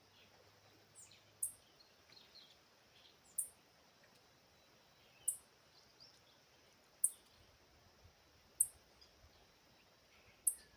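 A small animal's short, very high chirp, repeated about every two seconds, six times, over faint outdoor background noise.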